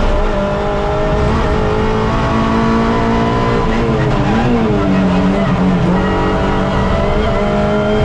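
Suzuki Swift race car's engine heard from onboard, held at high revs under load. Its pitch wavers down and back up briefly about four seconds in.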